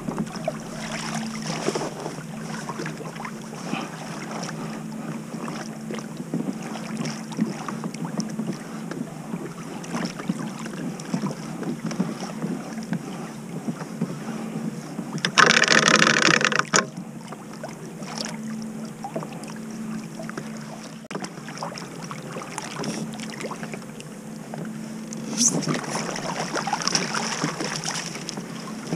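Water lapping and dripping around a kayak on choppy water, with wind on the microphone and many small ticks and splashes. About fifteen seconds in, a loud rush of noise lasts over a second, and the sound grows louder again near the end.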